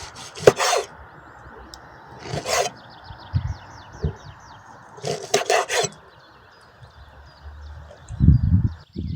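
Three short bouts of rasping, scraping strokes, with birds chirping in between and a few dull low knocks near the end.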